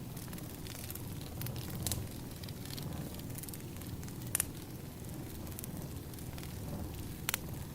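Burning firewood crackling: irregular sharp pops and snaps over a steady low rumble of the flames, the loudest pops about two, four and a half and seven seconds in.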